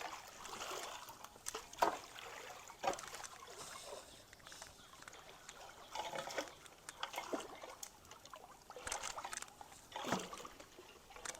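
Creek water trickling, broken by irregular splashes and sloshes every second or two as debris and water are stirred in the shallow creek.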